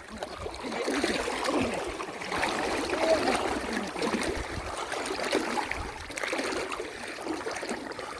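Muddy water sloshing and trickling, a continuous irregular splashing with no single large splash.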